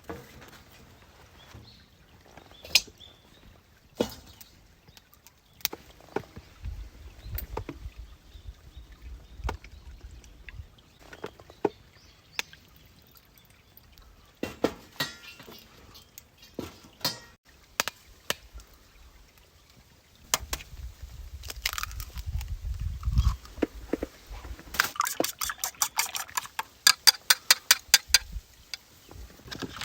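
Scattered knocks and clinks of gear being handled, with a low rumble at times, then a quick, even run of about a dozen sharp taps near the end.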